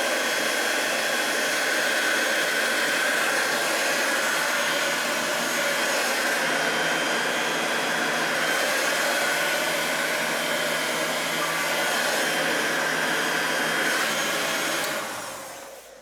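Electric heat gun blowing steadily while it heats a PVC elbow to soften it. Near the end it is switched off and the fan winds down, its hum falling in pitch.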